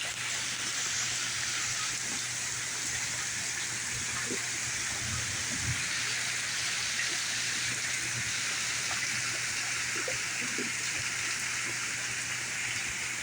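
Heavy rain falling steadily in a thunderstorm, an even, unbroken hiss, with a faint steady low hum beneath it.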